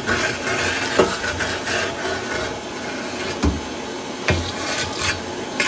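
Steady scraping and rubbing on the metal burners of a gas hot water boiler as they are cleaned out, broken by a few sharp knocks.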